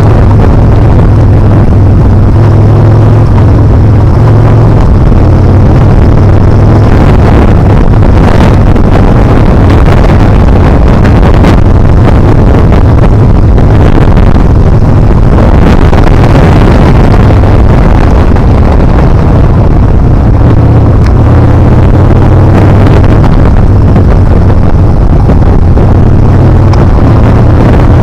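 Yamaha Bolt R-spec's 942 cc air-cooled V-twin running steadily under way, its pitch shifting a little as the throttle changes. Loud wind rushes over the microphone, with brief gusts.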